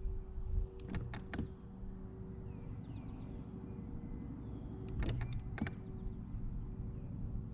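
A boat's electric trolling motor running with a steady hum, with two quick groups of three sharp clicks, about a second in and about five seconds in. Faint bird chirps sound in the background.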